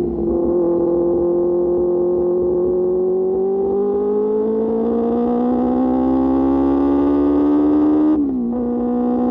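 QJ Motor SRK600's inline-four engine through an SC-Project exhaust, pulling steadily under load with its pitch rising slowly as the bike accelerates. Near the end the pitch drops sharply with a brief break as it shifts up a gear, then runs on steady at the lower pitch.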